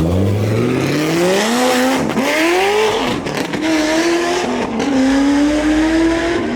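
Car engine accelerating hard as it pulls away, its pitch climbing and dropping back at each upshift, about two, three and nearly five seconds in.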